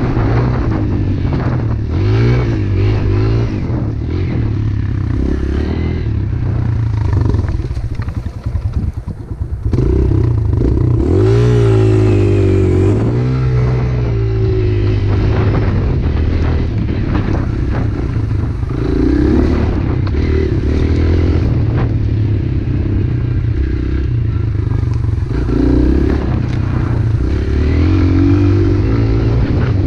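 Pit bike engine running and revving, its pitch rising and falling with the throttle, with a brief drop in loudness about eight seconds in.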